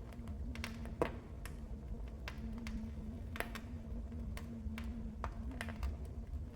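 Wood fire crackling in a fireplace: irregular sharp pops and snaps, a louder one about a second in, over the low steady rumble of the burning fire and a faint steady hum.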